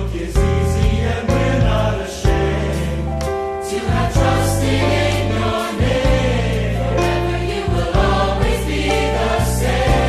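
A choir singing, with steady instrumental accompaniment underneath.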